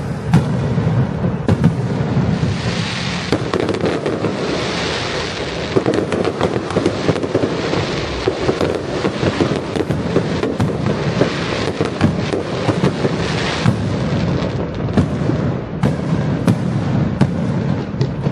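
Fireworks going off in a continuous volley: many sharp bangs and crackles, with a surge of hissing every couple of seconds.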